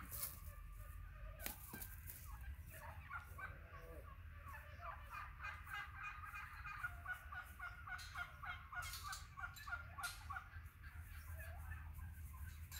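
Faint bird calls: short notes repeated in quick runs, densest in the middle, over a steady low rumble.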